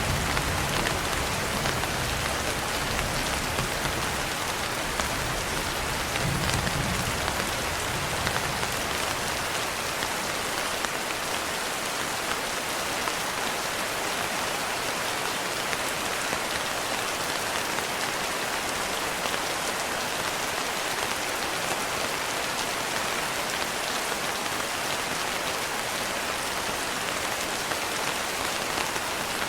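Steady rain pattering on a window pane, with low rumbles of distant thunder in the first second and again about six seconds in.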